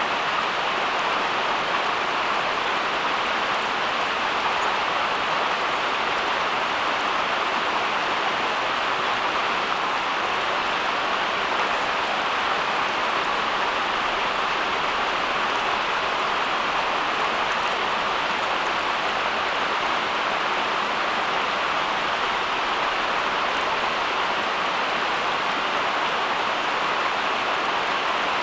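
Steady rain falling: an even, unbroken hiss with no separate drops or other events standing out.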